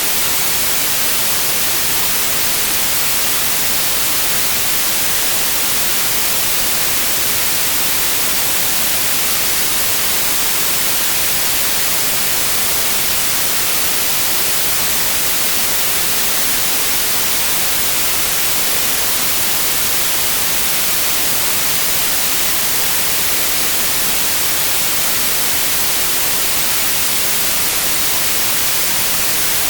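Steady electronic white noise, an even, unchanging hiss strongest in the high frequencies.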